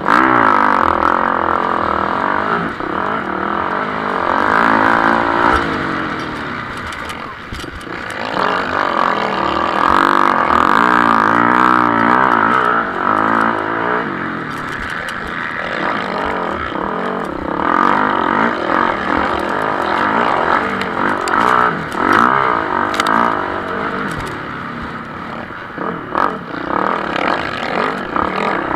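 Motocross bikes racing, their engines revving up and down repeatedly as riders work the throttle and gears. The bikes swell louder as they pass, most of all about ten to thirteen seconds in.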